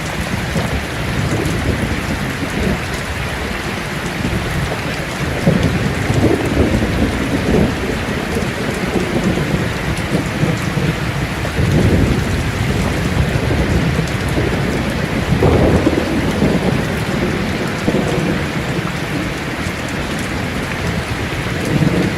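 Heavy rain drumming steadily on a tin roof, with rolling thunder rumbling up several times over it.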